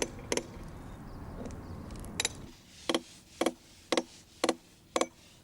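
A hand tool striking the oak trunk in steady, regular blows, about two a second, each with a short ring. It starts about two seconds in, after a rough rushing noise.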